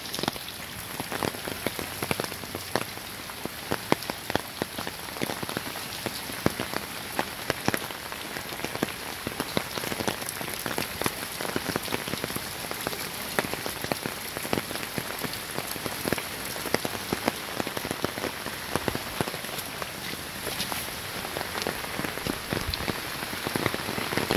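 Hurricane rain falling steadily on a flooded yard: a constant hiss thick with the patter of individual drops, many landing in standing water.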